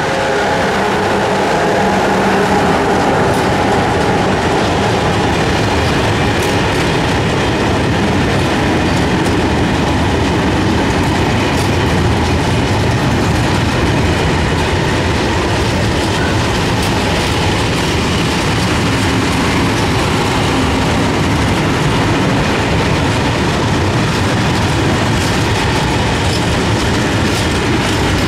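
A train running past close by, a steady loud rumble and rattle of wagons with the wheels clattering over rail joints and a little wheel squeal.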